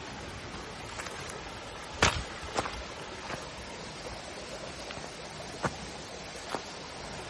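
Steady outdoor ambient hiss with low rumble, the kind left by wind on a phone microphone, broken by five sharp, irregularly spaced clicks or knocks, the loudest about two seconds in.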